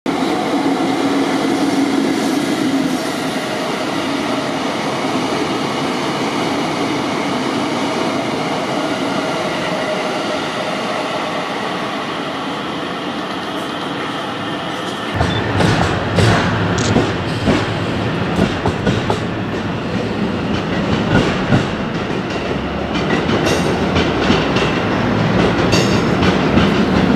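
Train rolling on the rails as the Tsukuba Express 3000 series cars are hauled through in rail delivery: a steady rumble at first, then from about halfway a louder, lower rumble with wheels clacking repeatedly over rail joints.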